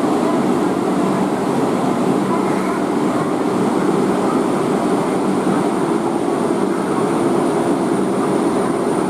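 Steady rumble of a passenger train in motion, with a thin high whine joining about three seconds in.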